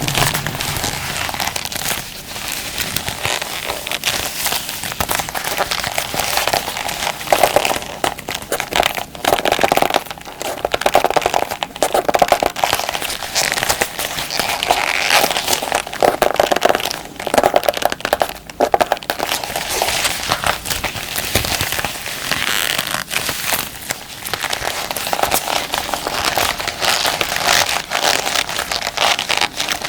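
Combat gloves being handled and crinkled, giving dense, continuous crackling and rustling with no pauses.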